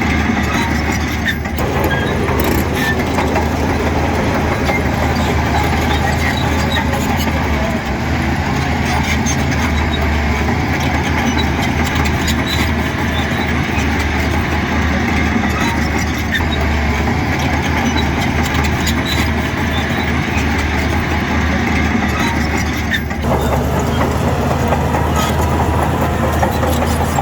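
Heavy construction machinery's diesel engine running steadily under load, with the sound changing abruptly about a second and a half in and again near the end.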